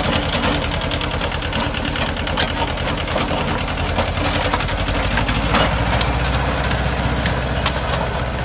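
Yanmar compact tractor's diesel engine running steadily under load while its PTO-driven rotary tiller digs into the soil, with scattered sharp clicks throughout.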